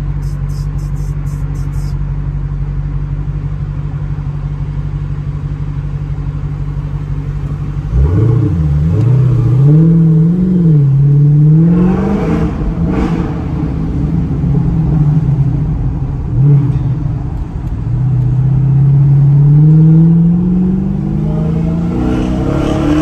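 Dodge Challenger SRT Hellcat's supercharged 6.2-litre V8 heard from inside the cabin: a steady low drone while cruising, then about eight seconds in the throttle opens sharply and the engine note rises and falls as the car accelerates. Near the end the pitch climbs steadily under another pull.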